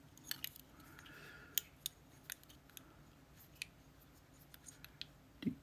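Metal tweezers clicking and scraping against the pins and springs of a disassembled GeGe pExtra+ lock cylinder: a dozen or so faint, irregular ticks with a soft scrape about a second in.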